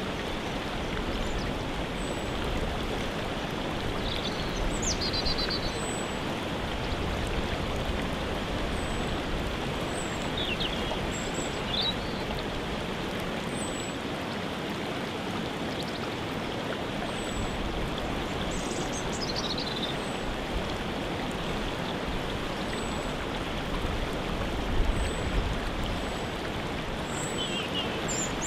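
Waterfall: a steady, dense rush of falling water. Over it, a bird gives a few short, high, falling calls several seconds apart.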